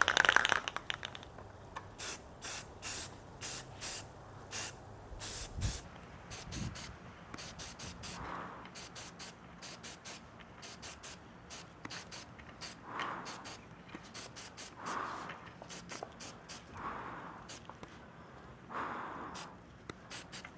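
Aerosol can of primer filler spraying in many short bursts of hiss, a few a second, with softer swells between them, as a coat is laid over 3D-printed parts.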